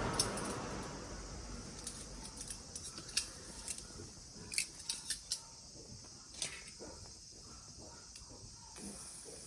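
Turban shells grilling in their shells over a small solid-fuel fire: a faint sizzle with scattered, irregular small pops and clicks.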